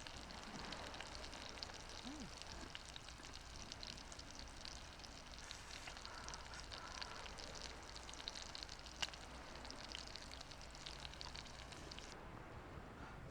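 Food sizzling in a pan: a steady, fine crackling with scattered small pops and one sharper click, cutting off abruptly near the end.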